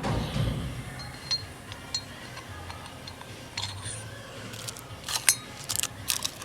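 Small metal clinks, taps and light knocks of hand tools and chainsaw engine parts being handled during a teardown. They come irregularly, with a quick cluster of sharper clicks about five seconds in.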